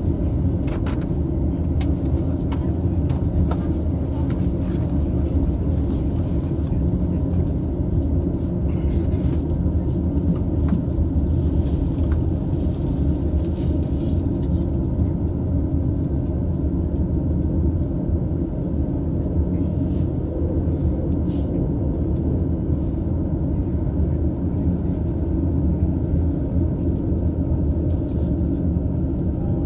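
Interior running noise of a JR East E233 series electric train, heard from inside its double-deck Green Car: a steady low rumble with faint clicks and rattles.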